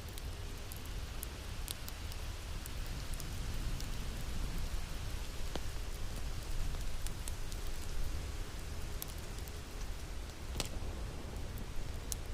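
Wood fire crackling in a fireplace: a steady hiss over a low rumble, with scattered sharp pops.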